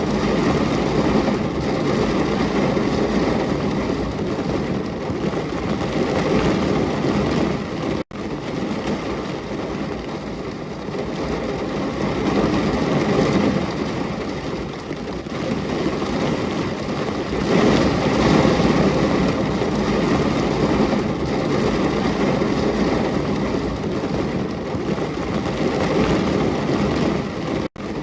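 Steady heavy rain, a dense hiss with a strong low rumble, that cuts out for an instant about eight seconds in and again near the end.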